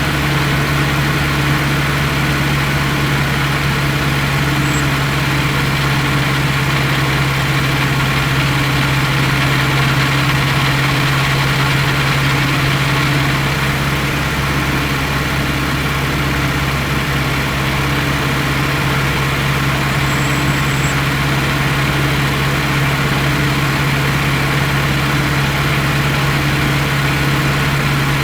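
Turbocharged Honda K20 four-cylinder engine of a 2003 Civic Si running at a steady speed, heard close up from the engine bay, with one strong steady drone and no revving.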